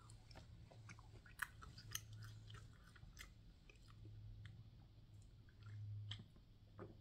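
Faint close-up chewing of food, with small wet mouth clicks through the first few seconds, then drinking from a can, with a swallow about six seconds in.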